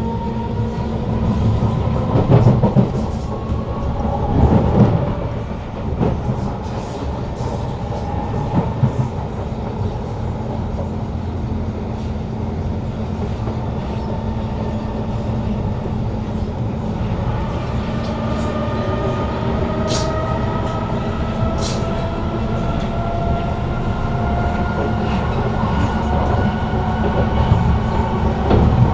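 Interior of a Kawasaki C151 train carriage on the move: its GTO-VVVF traction motors give a whine that rises in pitch, at the start and again from about two-thirds of the way in. Under it are steady wheel-and-track rumble and clickety-clack.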